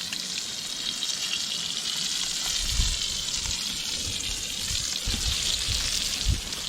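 Trout frying in a pan, a steady sizzling hiss, with irregular low rumbles of wind gusting against the microphone from about two and a half seconds in.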